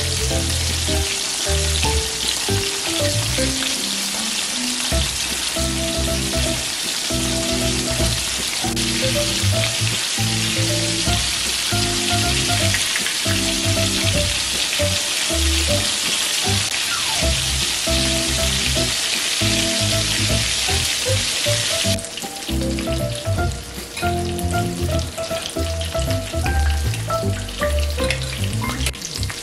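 Breaded shrimp deep-frying in hot oil in a cast-iron skillet: a dense, steady sizzle that thins to a lighter, more uneven crackle about 22 seconds in. Background music plays underneath.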